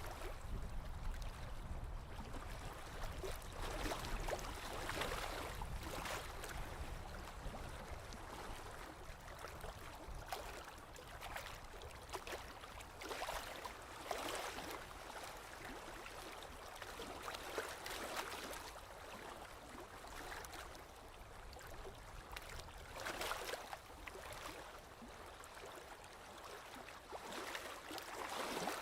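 Small lake waves lapping against the shore, a soft splash-and-wash every second or two at uneven intervals.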